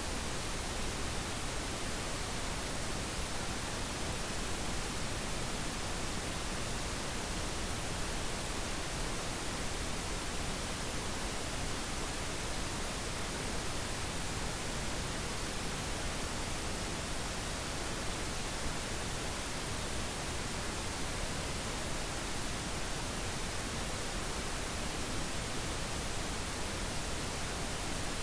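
Steady synthetic pink noise: an even, unchanging hiss across the whole range, with no events or changes.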